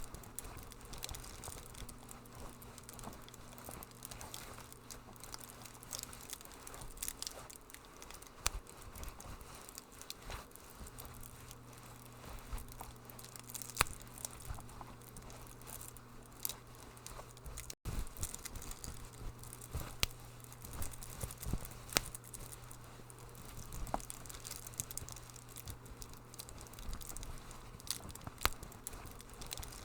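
Wood fire in a fireplace crackling, with irregular sharp pops and snaps over a steady low hum. The sound cuts out for an instant about 18 seconds in.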